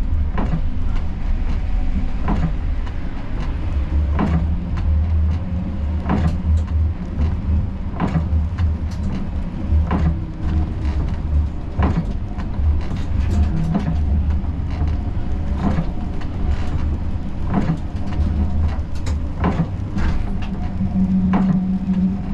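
Siemens Combino tram running, heard from the driver's cab: a steady low rumble, with a sharp click roughly every two seconds. A steady hum joins in near the end.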